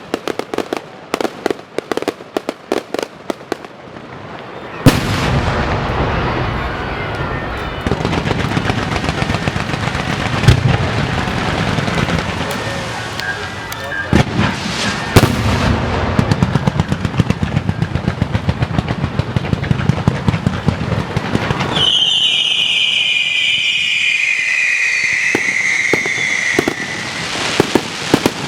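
Strings of firecrackers popping: scattered rapid cracks at first, then about five seconds in a sudden, dense, continuous barrage that lasts some seventeen seconds. When the barrage stops, scattered pops go on alongside a high tone that slowly falls in pitch.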